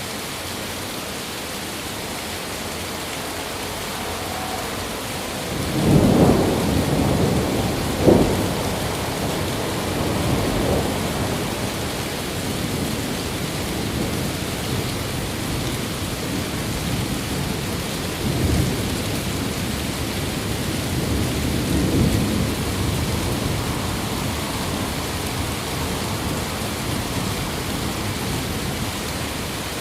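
Steady rain with thunder. About six seconds in, a rumble swells up with a sharp crack near the eighth second, and weaker rolls of thunder follow later.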